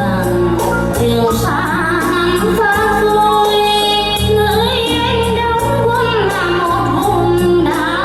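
A woman singing a song over a backing band, with wavering held notes over a steady bass line and a regular beat.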